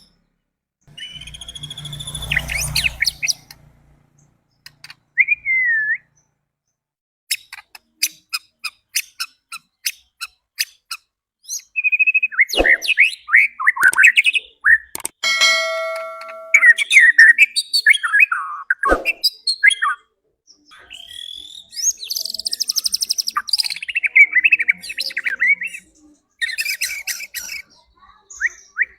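White-rumped shama (murai batu) singing a loud, varied song of sweeping whistles, rapid chattering trills and buzzy notes, broken by short pauses.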